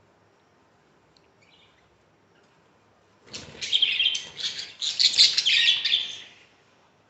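Budgerigar chattering: a burst of rapid, scratchy chirps that starts about three seconds in and lasts about three seconds.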